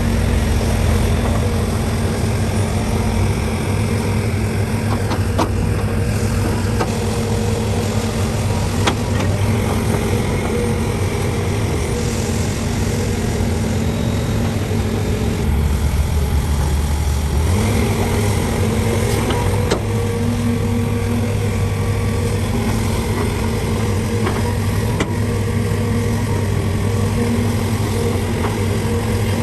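Heavy diesel engines of a CAT 385C excavator and a dump truck running steadily, with a few sharp knocks along the way.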